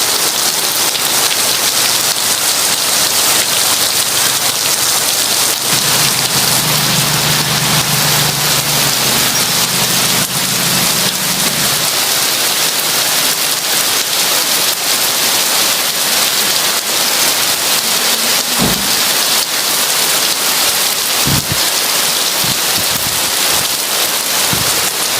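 Heavy rain falling steadily in a dense hiss. A low thunder rumble rolls from about six to twelve seconds in, and several short low thuds of thunder come near the end.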